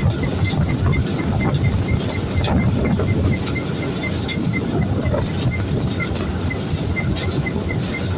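Farm machine running with a steady low rumble and a light high tick repeating about four times a second.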